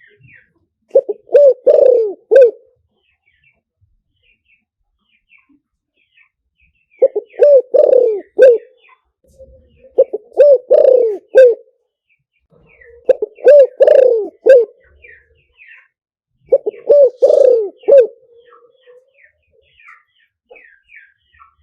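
Spotted dove cooing: five phrases of several low coos each, spaced a few seconds apart, with faint chirps from small birds in between.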